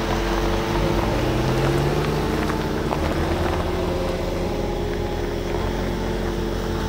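A vehicle's engine running steadily, with a low rumble and a held hum.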